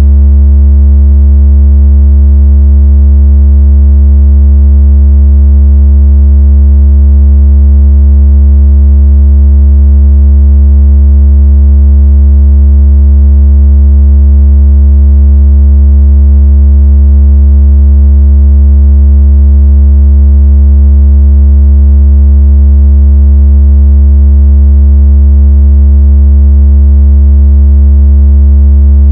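Synthesized low bass tone, very loud and perfectly steady, with a row of fainter overtones above it. It is a water-ejection tone played to shake water out of a phone speaker.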